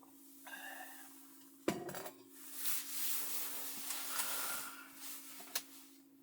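Objects being handled: a sharp knock, then a few seconds of clattering and rubbing, and a single click near the end, over a steady low hum.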